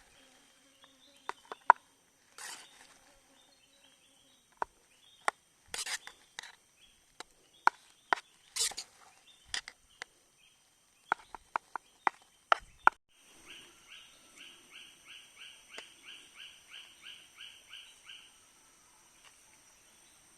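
A string of sharp clicks and knocks over a steady high-pitched insect drone, then a rapidly repeated animal call of about three pulses a second for some five seconds.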